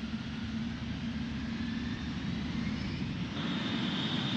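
Dassault Falcon 8X's three turbofan engines spooling up for the takeoff roll: a steady rumble under a whine that rises in pitch and about three seconds in settles into a strong, steady high whine.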